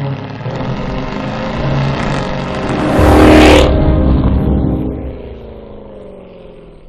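Mercedes CLS 63 AMG's V8 exhaust as the car accelerates past, loudest about three seconds in, then fading away with slightly falling pitch.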